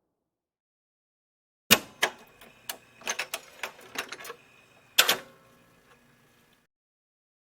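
A sound effect of sharp mechanical clacks: a loud knock, a quick irregular run of about a dozen clacks, then another loud knock about five seconds in, fading out after it.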